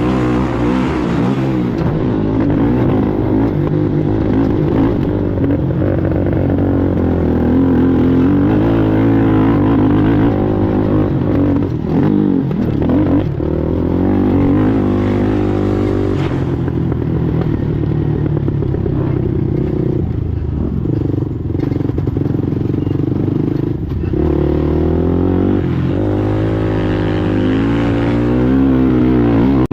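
Race ATV engine running hard under load, its pitch rising and falling again and again as the throttle is worked, with some rattling and scraping of the machine over rough ground.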